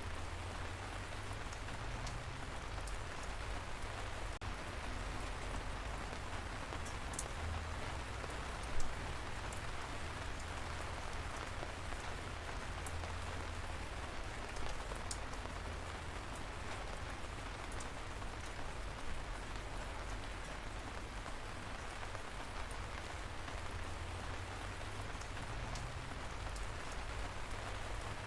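Steady light rain falling, a constant even hiss with a low rumble underneath and scattered individual drops ticking, one sharper tick about nine seconds in.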